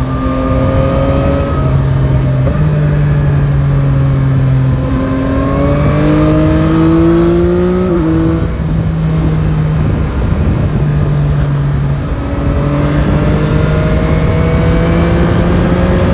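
Yamaha Tracer 9 GT's CP3 three-cylinder engine pulling under throttle while riding. Its pitch climbs for a few seconds, drops sharply about halfway through at a gear change, then rises gently again. Steady wind rush runs underneath.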